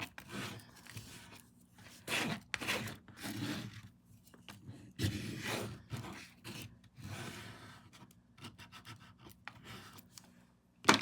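Scraping knife dragged through acrylic paint on a canvas in several separate strokes, each lasting up to about a second. A single sharp knock near the end is the loudest sound.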